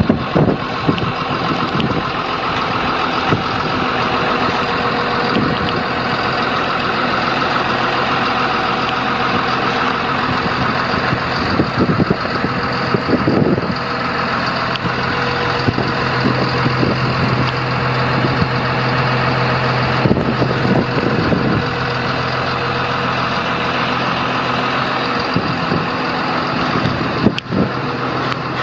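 Cat D6N LGP crawler dozer's diesel engine running steadily, with a few scattered clanks.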